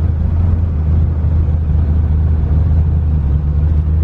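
Twin-turbo LS V8 in a Fox Body Mustang running at low revs while the car drives slowly: a steady, deep drone.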